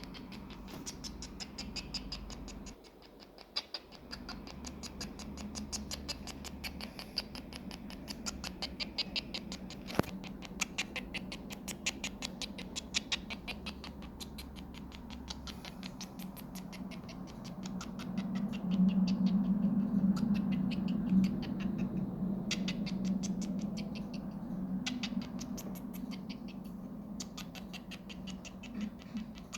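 Sony MDR-XB650BT Bluetooth headphones glitching: a rapid, stuttering run of clicks over a low hum, the audio looping in tiny repeated fragments instead of playing normally. This is the headphones' frame-looping playback fault. The hum swells louder for a few seconds about two-thirds of the way through.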